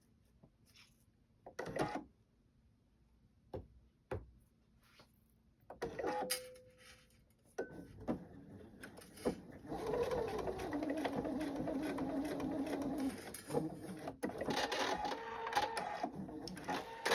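A few light clicks and handling sounds, then a sewing machine running steadily from about halfway through. It stops briefly and starts again near the end.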